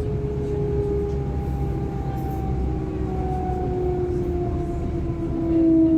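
Interior of a DB class 425 electric multiple unit running: steady rolling rumble with the traction motors' whine slowly falling in pitch as the train eases off speed, getting briefly louder near the end.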